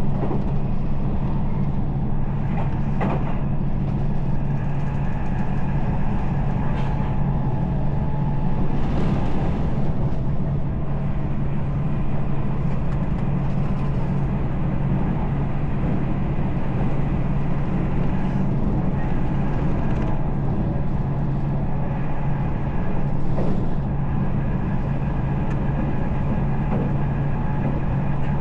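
Passenger train running along the line: a steady low hum over a continuous rumble, with a few faint knocks.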